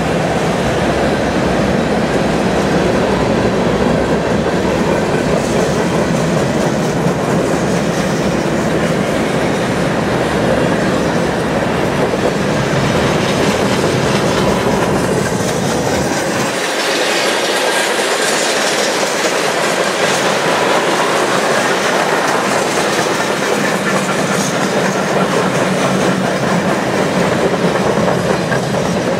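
Freight train cars passing at speed: a loud, steady rolling rumble and clatter of steel wheels on the rails. About halfway through, the deep rumble drops away and a brighter hiss comes forward.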